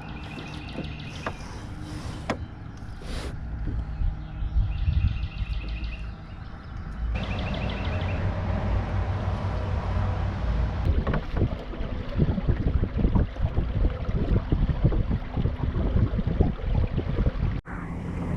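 Water sloshing and wind buffeting the microphone as a Coleman Scanoe moves on open water, growing louder and rougher about seven seconds in.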